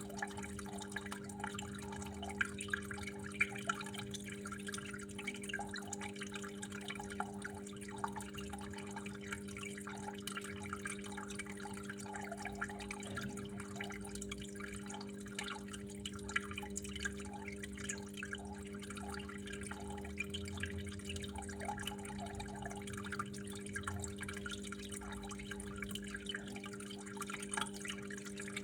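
Water trickling and dripping steadily, a busy, irregular patter of small splashes, over a steady low hum.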